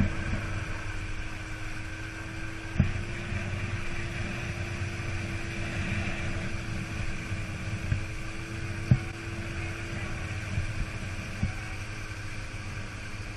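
Dinghy outboard motor running steadily, a constant engine hum over a low rumble. Two short sharp knocks stand out, about three seconds and nine seconds in.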